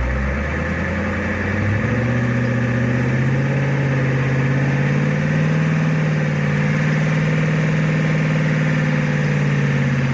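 Pickup truck engine revving up about two seconds in and held at raised revs, then easing off near the end: the driver giving it more throttle to pull the stuck truck out of the snow over kindling under the tires.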